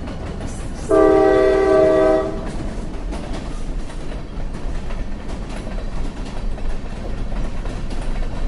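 Train horn sounding one blast of a little over a second, a chord of several tones, about a second in. Around it, the steady rumble and rail noise of the moving train.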